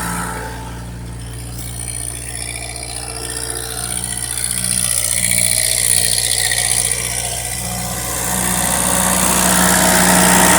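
Ford 8N tractor's four-cylinder flathead engine idling steadily, getting louder in the second half.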